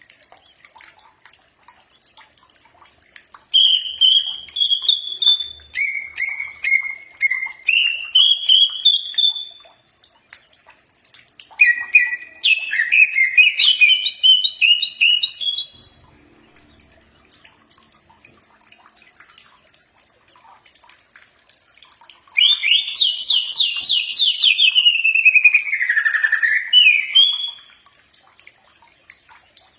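Cucak ijo (greater green leafbird) singing: three loud phrases of rapid chirping, trilled notes that rise and fall in pitch, separated by pauses of a few seconds.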